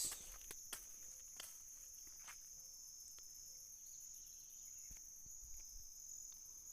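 Steady high-pitched chirring of an insect chorus, with a few faint scattered clicks and taps.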